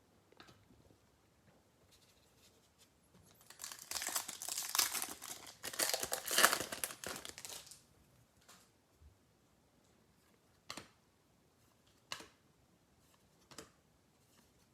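A baseball card pack's wrapper being torn open and crinkled for a few seconds, followed by a few light taps.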